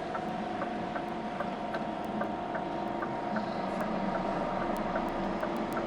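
HGV truck's diesel engine running steadily, heard inside the cab, with a faint regular ticking over it.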